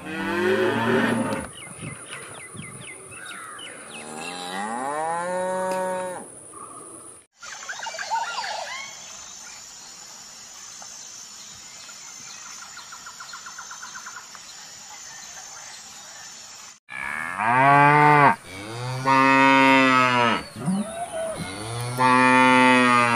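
Cattle mooing. A calf moos twice in the first few seconds. After a quieter stretch with faint bird chirps, cows in a herd moo three times, long and loud, near the end.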